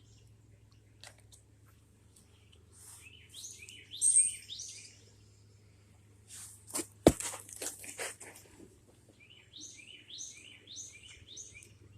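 A bird chirping in short, falling twitters, in two runs. Between them come a few clicks and one sharp knock.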